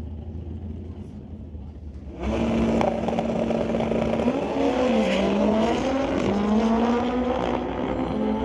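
Drag-racing motorcycles idling low at the starting line, then launching at full throttle about two seconds in: loud engines climbing in pitch, with drops at the gear shifts.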